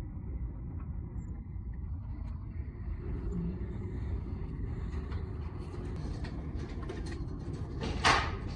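A steady low mechanical rumble, with a short, loud hiss near the end.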